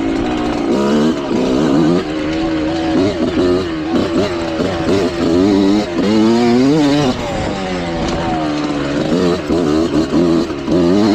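Kawasaki KX125 dirt bike's single-cylinder two-stroke engine running, its pitch rising and falling again and again as the throttle is opened and closed.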